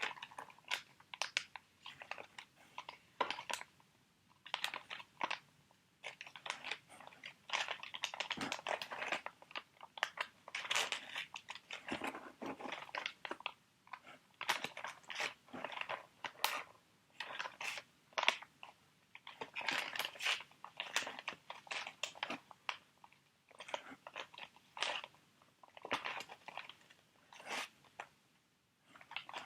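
Crinkly foil-and-plastic sheet mask packets being handled close up, in irregular bursts of crackling and clicking with short pauses between them.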